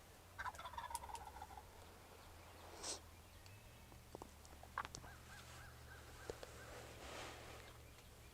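Wild turkey gobbler gobbling once, faintly, about half a second in: a rapid rattling call lasting about a second. A few light clicks follow.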